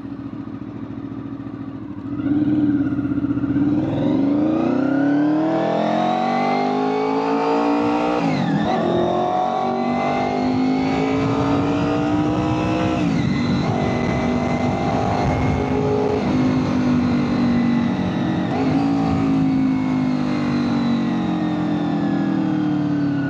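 2001 Honda VFR800FI Interceptor's V4 engine getting louder about two seconds in and climbing in pitch under hard acceleration, then running on at high revs with brief dips in pitch a few times.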